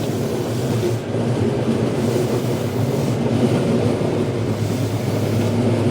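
Running sound of a Semboku Rapid Railway 5000 series electric train heard from inside the car: a steady rumble of wheels on rail and traction equipment as the train runs.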